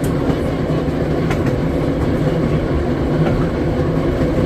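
Philadelphia Suburban Transportation Co. trolley car #76 rolling along the track: a steady running rumble of wheels on rail, with a few faint sharp clicks.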